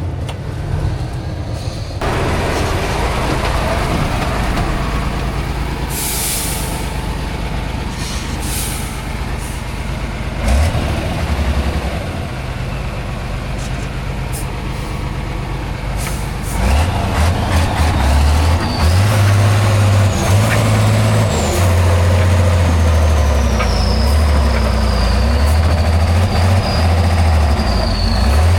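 Heavy off-road competition truck's diesel engine running, with brief hisses of air around a quarter of the way in. About halfway through the engine grows louder, with a deep drone and a thin whistle that wavers in pitch.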